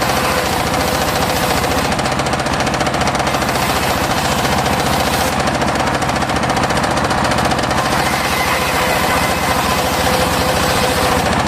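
Homemade engine-driven circular sawmill running steadily with a fast, even pulsing beat while sawing mahogany.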